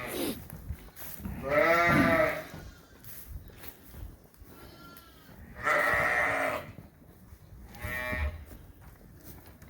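Sheep bleating in a barn: three loud baas about a second each, about a second and a half in, around six seconds in and around eight seconds in, with a fainter, higher bleat between them.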